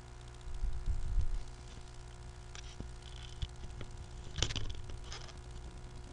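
Quiet room tone with a steady low electrical hum, a few soft low bumps in the first second or so and a couple of faint clicks.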